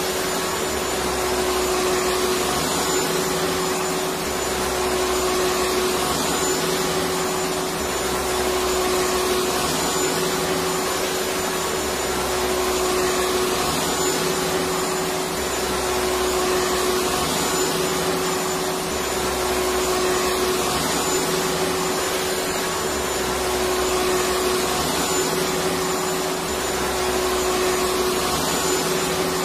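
Electric vacuum cleaner running steadily: a constant rushing whoosh with a steady hum. A lower rumble comes in and drops out about every four seconds.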